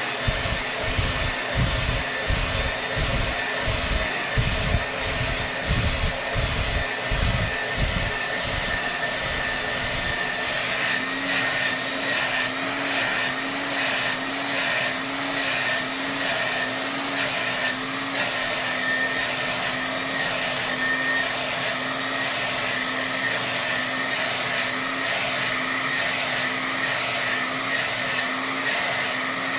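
Hair dryer blowing at full power, a steady rush of air. For about the first ten seconds, low rumbling pulses come and go under it, about once or twice a second. After that the airflow settles into a steady whir with a slight regular wobble.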